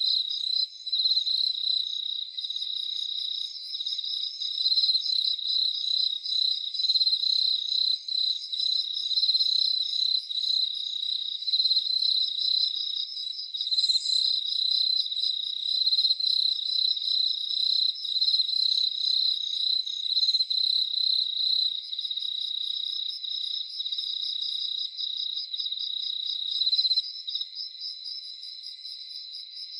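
Crickets chirping in a continuous, high-pitched, finely pulsed trill, easing off a little near the end.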